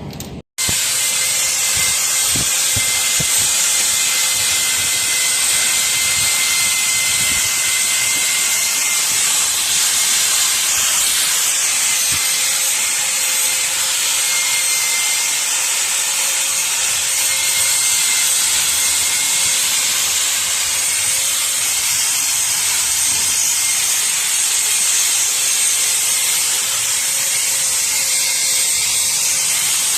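A pressurised jet hisses loudly and steadily, starting after a brief cut to silence, with a faint steady whistle in it.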